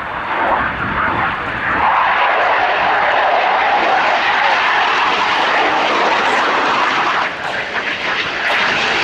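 Display aircraft flying a pass: a loud, steady rush of engine noise that swells about two seconds in and dips briefly near the end.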